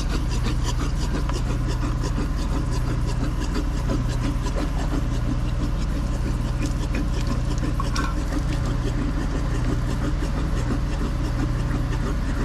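Diesel engine idling steadily, with a low hum, overlaid by light scraping and rubbing as a brush spreads lubricant onto a water pipe joint.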